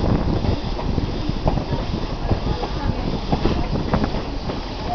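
Passenger railroad car rolling along the track: a steady low rumble with many irregular clacks and knocks from the wheels and running gear.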